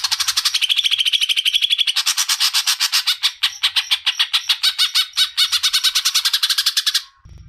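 Green leafbird (cucak ijo) singing a long, unbroken rolling song: a fast string of short notes, about a dozen a second, breaking off about seven seconds in.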